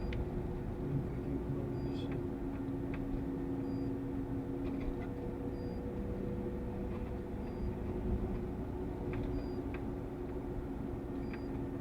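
Steady driving noise inside the cabin of a GAZ Sobol van on the highway: engine drone and road rumble with steady hum tones, even in level throughout.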